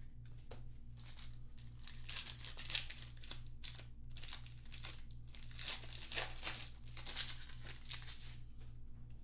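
A trading-card pack wrapper being torn open and crinkled by hand, in two bouts of crackling.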